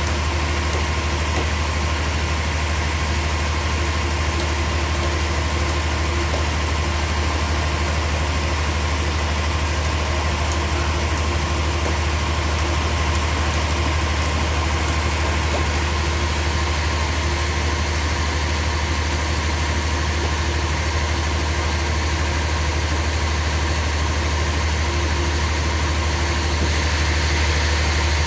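A machine engine running steadily with a strong low hum, getting a little louder near the end.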